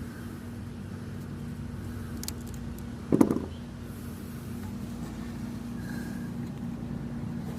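Steady low machinery hum with one constant tone. There is a single dull knock about three seconds in, and a few faint small clicks just before it, from hand work on the unit's wiring.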